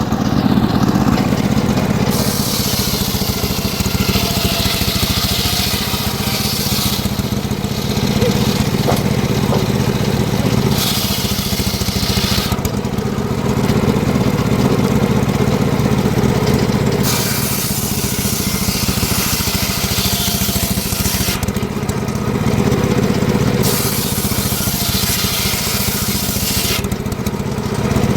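Engine-driven homemade circular sawmill running steadily, its blade ripping through mahogany in about four stretches of three to four seconds each, with pauses between the cuts.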